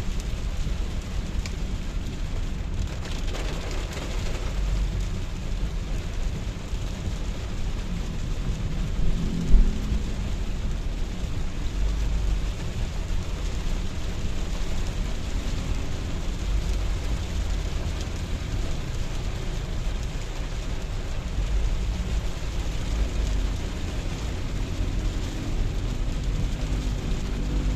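Steady rain falling, with a deep uneven rumble underneath and one brief thump about nine and a half seconds in.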